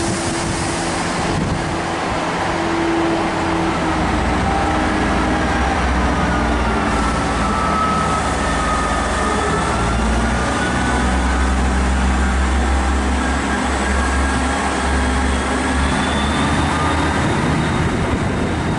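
Class 158 diesel multiple unit's engines running under power as the train pulls away, a steady low engine note with thin, wavering higher whines over it.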